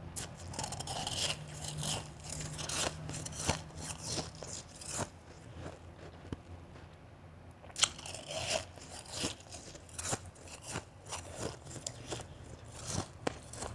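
Close-up crunching and chewing of soft, fluffy blended and shaved ice. Rapid crunches come in clusters, with a short lull, then a loud sharp crunch about eight seconds in and more chewing.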